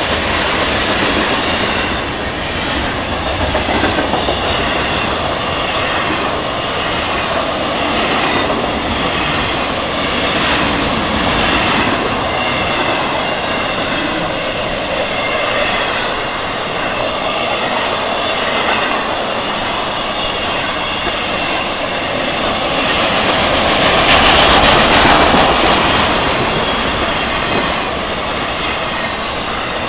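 Freight train rolling past at a grade crossing, hopper cars and then flatcars carrying highway trailers, with a steady rush of steel wheels on rail and faint regular clicks. It swells louder for a couple of seconds near the end.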